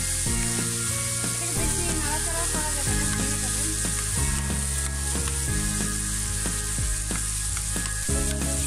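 Kachki fish with sliced onion and potato sizzling in a frying pan, a steady hiss, over background music with low sustained notes.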